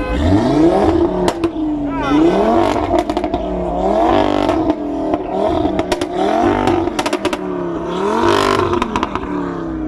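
Audi RS3's turbocharged 2.5-litre five-cylinder engine revved repeatedly, the pitch rising and falling about once a second, with sharp cracks from the exhaust in between.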